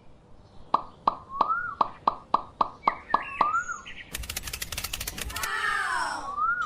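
A run of short, sharp plops, about three a second, mixed with bird-like chirps. From about four seconds in, a rapid clicking buzz takes over, with a wavering, sliding tone on top near the end.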